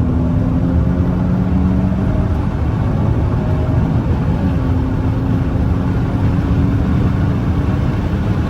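Wind and road noise rushing over a V6 Dodge Charger at high speed, heard from inside the cabin, with a steady low engine drone underneath.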